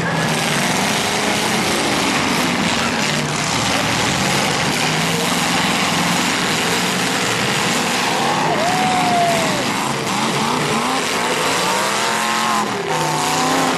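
Several demolition derby cars' engines running and revving together as the cars maneuver and push against each other.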